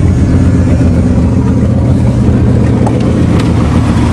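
1976 Chrysler New Yorker's 400 cubic-inch V8 running at a steady fast idle just after a cold start.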